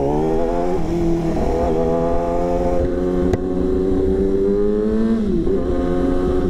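Yamaha R6's inline-four engine pulling away under throttle: the revs climb, drop at an upshift about a second in, then hold fairly steady with a brief dip in pitch a little past five seconds.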